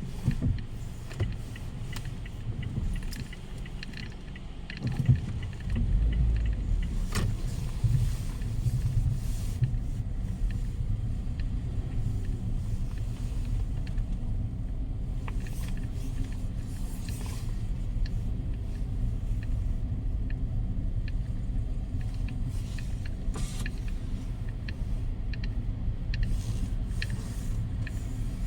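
Strong storm wind buffeting the microphone: a heavy, low rumble that grows louder about five seconds in and then holds, with scattered sharp clicks.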